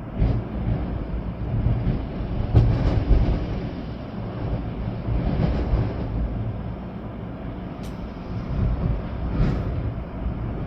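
Storm wind gusting, with rain. The gusts surge every few seconds over a heavy low rumble.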